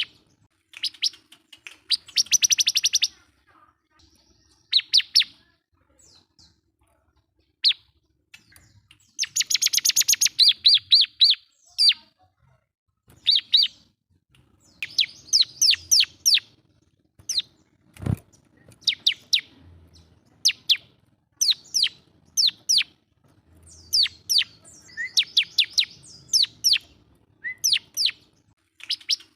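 Bar-winged prinia (ciblek) singing loudly in repeated bursts of rapid, high chirping notes with short pauses between them, in the lively 'gacor' song used to call a rival. One sharp click partway through.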